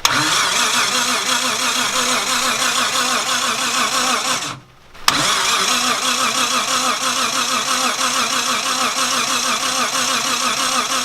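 Nissan RB30/26 engine in an S14 being cranked over on its starter, a steady pulsing churn that stops briefly about four and a half seconds in and then resumes.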